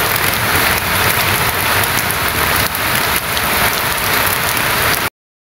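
Steady heavy rain falling, a dense even hiss with scattered drop hits, that cuts off suddenly about five seconds in.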